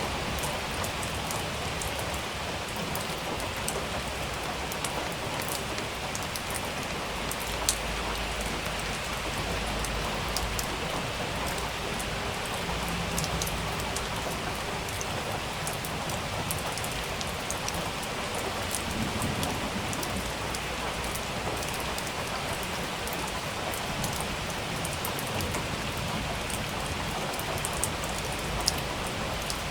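Steady rain falling, with scattered sharp drop taps on a surface; the loudest taps come about eight seconds in and near the end.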